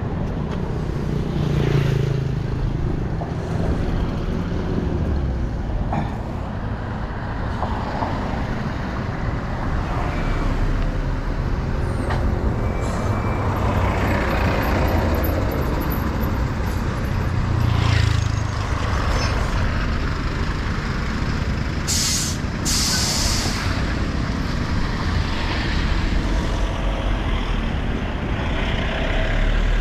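Road traffic with trucks and cars passing, a continuous low rumble and road noise. There are two short, sharp hisses about two-thirds of the way through.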